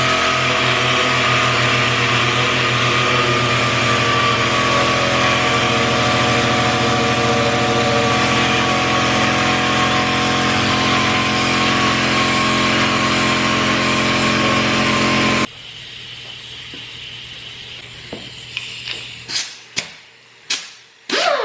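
A motor-driven power tool running steadily with a high whine that drifts slowly lower, stopping abruptly about fifteen seconds in. A few sharp knocks and a falling swoosh follow near the end.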